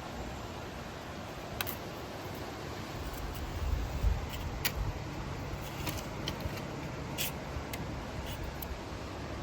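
Tree branch being batted by a playing cat: scattered light clicks and rustles of twigs over a steady hiss, with a low rumble swelling about a third of the way in.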